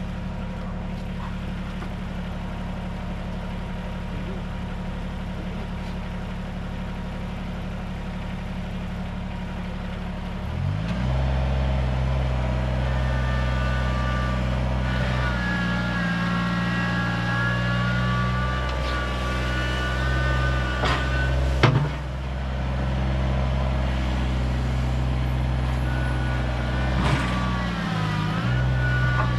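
Kubota BX compact tractor's three-cylinder diesel engine running steadily, then throttled up about eleven seconds in. After that a wavering higher whine rides over the engine, with a sharp knock a little past the middle.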